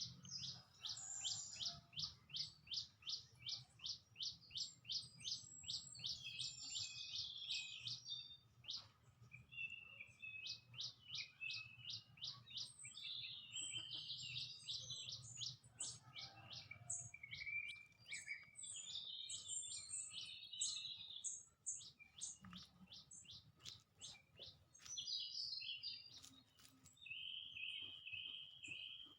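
Small songbirds chirping, with long runs of short, high, evenly repeated notes several times a second and other twittering calls overlapping, over a faint low background rumble.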